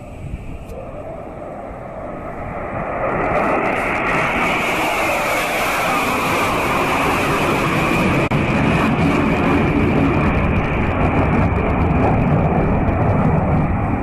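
Jet roar of Sukhoi Su-30MKI fighters flying over, their twin AL-31FP turbofans building in loudness over the first few seconds and then holding at a steady, loud level.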